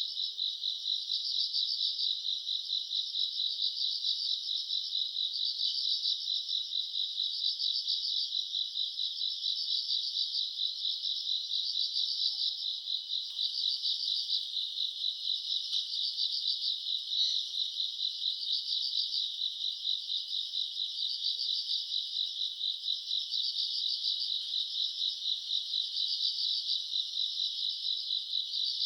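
Night chorus of grass insects such as crickets, a dense high trilling that swells and dips in regular phrases about once a second.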